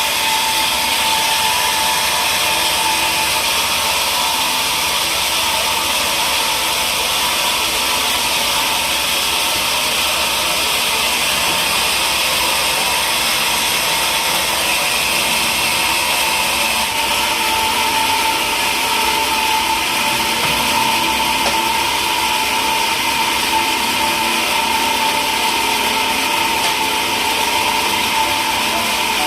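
Woodworking power machinery running steadily, a constant whine over a dense hiss with no breaks or changes in pace.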